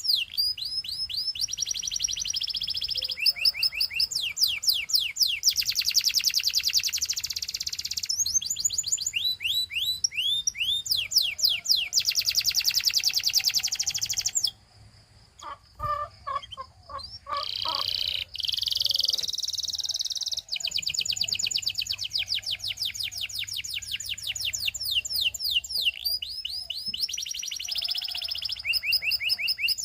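Canary singing in fast trills of rapidly repeated downward-sweeping notes, changing from one trill speed to another. A brief pause about halfway through holds a few lower chirps before the trills resume.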